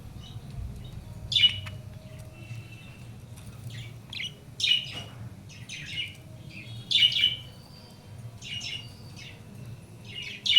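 Budgerigars chirping and squawking: a series of short, sharp calls at irregular intervals, with a low steady hum underneath.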